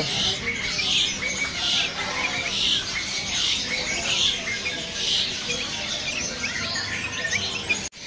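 Many caged songbirds chirping and calling together. One call is repeated about every 0.8 s over scattered shorter chirps.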